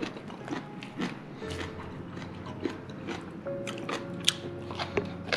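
A person chewing and biting food close to the microphone, with many small sharp clicks and crunches throughout.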